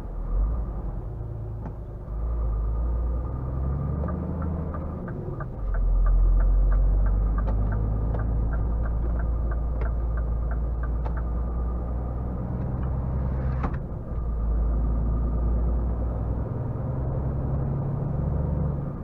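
Scania R450 truck's diesel engine running as the truck drives, its rumble rising and falling in steps. A run of steady, evenly spaced clicks in the middle, like a turn-signal indicator, and a short hiss near the end.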